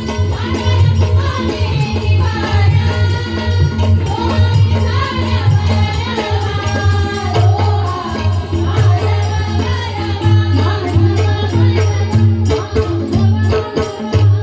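Marathi abhang devotional music: a pakhavaj drum beating, fast rhythmic jingling of small hand cymbals, and singing over it.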